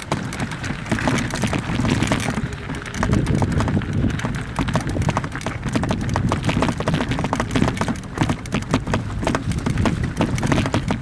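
Mountain bike rattling and clattering over a rough, rocky trail: dense irregular knocks and clicks over a low rumble of wind on the microphone.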